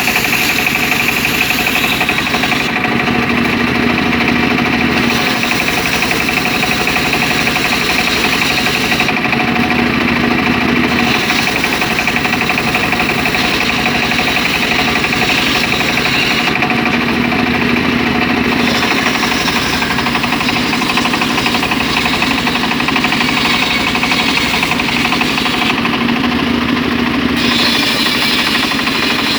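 Homemade engine-driven circular saw running while splitting mahogany timber: a steady engine drone with the saw's sound, which shifts about every seven to eight seconds.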